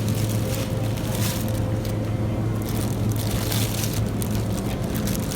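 Steady low hum of a supermarket's background machinery, with faint scattered rustles and clicks.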